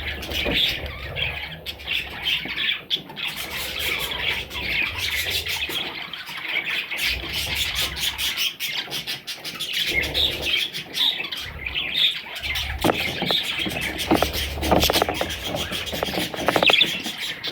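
A group of young budgerigars chirping and chattering without a break, with many sharp clicks scattered through it.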